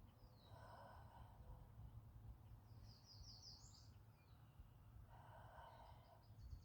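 Faint outdoor birdsong: a quick run of high chirping notes about three seconds in and again near the end, with two rougher, lower calls about half a second and five seconds in, over a low steady rumble.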